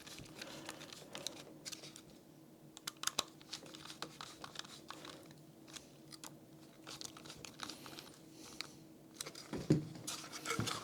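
Small parts being handled and fitted on a workbench: scattered light clicks, taps and rustling, with a louder cluster of clicks near the end, over a faint steady hum.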